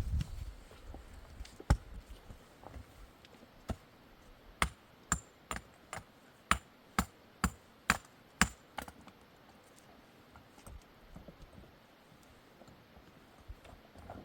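A run of sharp knocks or taps, about two a second for around four seconds, with a few single knocks before it and faint ticks after it.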